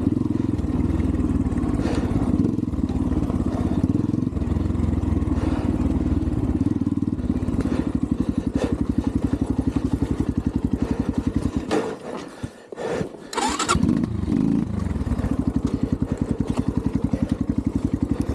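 Xpro Templar X 250cc dirt bike's single-cylinder engine running and then idling with even pulses. About twelve seconds in it cuts out, and a couple of seconds later it is running again. The owner puts the stalling down to a carburettor idle screw set too low.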